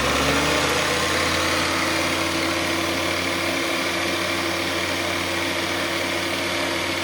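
Valve refacing machine running steadily: its electric motor and spinning grinding stone give a continuous hum with a grinding hiss, having just come up to speed at the start.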